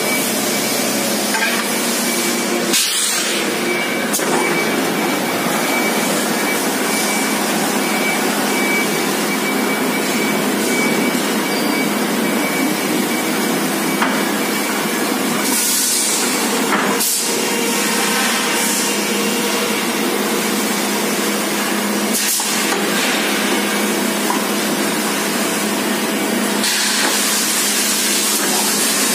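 Steady factory machinery din in a muffler production shop, with a faint high whine and a few sharp metallic knocks.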